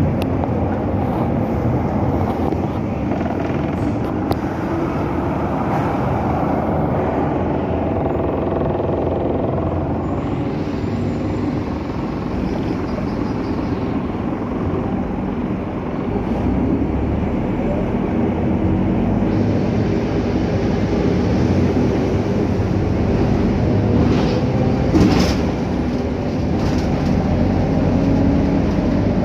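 Scania K310UA articulated bus running on the road, heard from on board: a steady engine and drivetrain drone whose pitch slowly rises and falls as the bus accelerates and eases off. There is a brief rattle or clunk about 25 seconds in.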